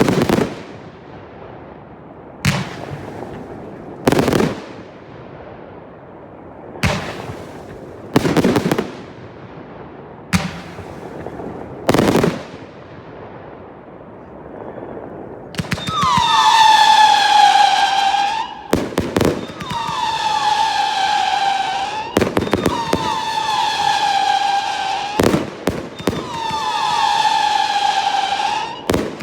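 Fireworks display: sharp bangs of bursting fireworks every one to two seconds. From about halfway, a run of whistling fireworks gives repeated falling whistles, each lasting a couple of seconds, with bangs between them.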